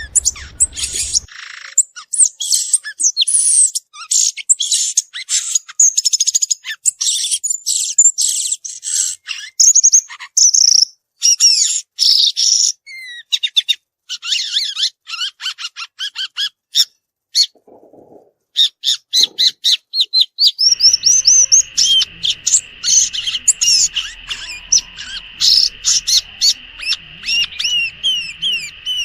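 Violaceous euphonia singing a long, fast, varied string of high chirps, twitters and short slurred whistles, with a sparser stretch a little past the middle.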